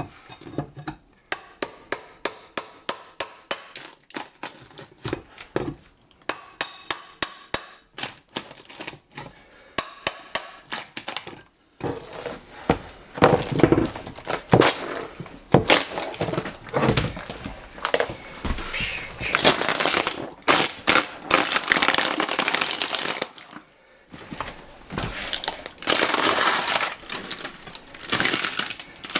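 Old kitchen floor tiles and underlay being pried and torn up. For about the first twelve seconds there is a quick run of sharp knocks, some with a metallic ring, about three a second. Then comes a long stretch of cracking, scraping and tearing as the flooring breaks away, held down in places by screws and nails.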